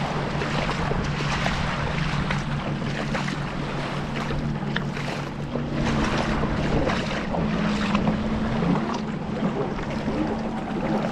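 Jet ski engine running at a steady pace on the water, with wind buffeting the microphone and water rushing.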